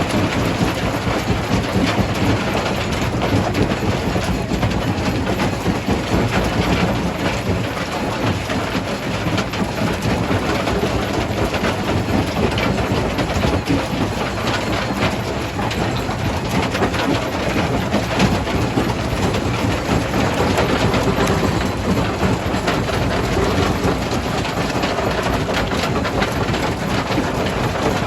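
Jaw crusher running, crushing stone with a dense, continuous clatter of rock and a steady low machine hum underneath.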